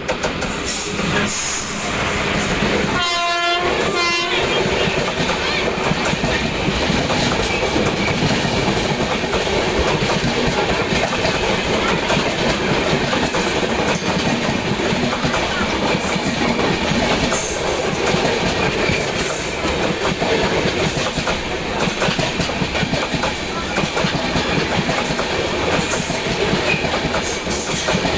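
Express train hauled by an Indian Railways electric locomotive passing at speed: a steady, loud rumble of wheels on rail with clickety-clack. About three seconds in, the locomotive's horn sounds one blast of under a second, then a shorter second one.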